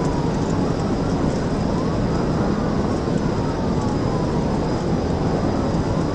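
Police siren wailing, its pitch slowly rising and falling, over steady engine and road noise from the pursuing patrol car.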